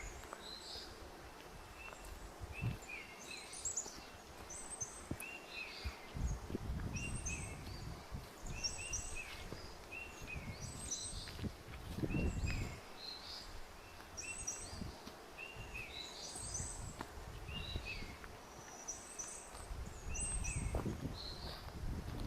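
A small songbird calls over and over with short, high chirps, roughly one a second, while low thuds and rumbles come and go from footsteps along a forest trail.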